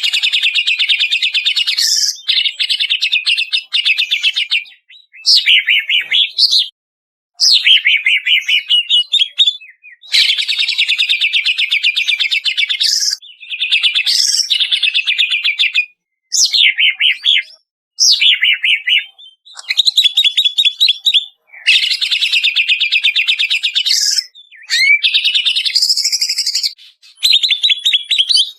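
Cucak ijo (greater green leafbird) of the Banyuwangi type singing in rapid-fire phrases of high, fast-repeated notes. Each phrase lasts one to three seconds, with short pauses between.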